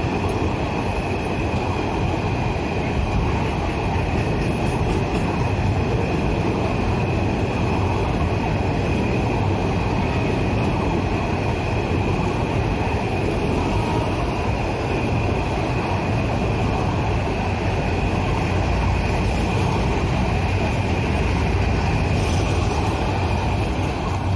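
Container freight train running through a station without stopping: steady rumble of wagon wheels on the rails, with a constant high whine over it.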